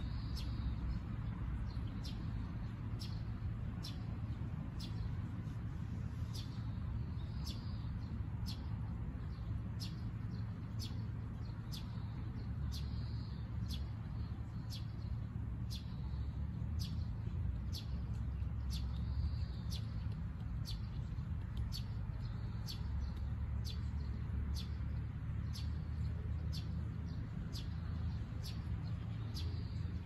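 Birds chirping with short calls every few seconds, over a steady low rumble and a faint, even ticking about three times every two seconds.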